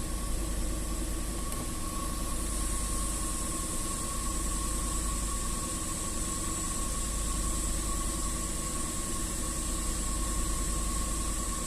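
Range Rover 4.2 supercharged V8 idling steadily and evenly on a cold engine. The misfires it had on cold starts are gone now that its valve clearances have been reset: zero misfires counted.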